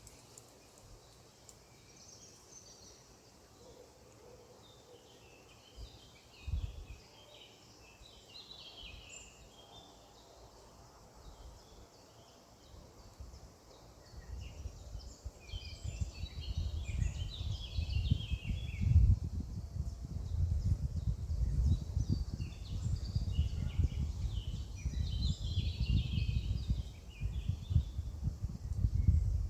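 Several birds chirping and singing in short phrases throughout. About halfway in, a loud, uneven low rumble joins them and stays.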